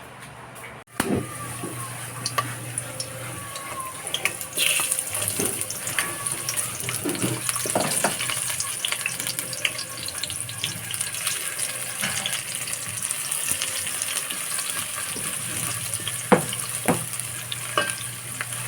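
Meat frying in hot oil, a steady sizzling hiss full of small crackles, growing louder and brighter about four and a half seconds in, with a few utensil or pan clatters.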